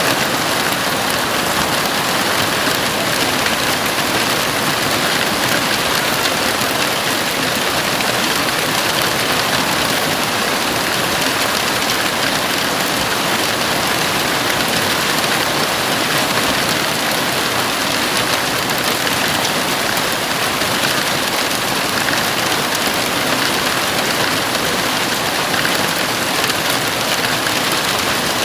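Heavy rain falling steadily on a house roof, a dense, even hiss with no individual drops or thunder standing out.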